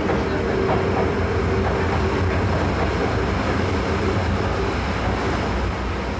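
DisneySea Electric Railway train running along its track, heard from aboard: a steady low rumble. A humming tone fades away over the first seconds as a train on the other track goes by.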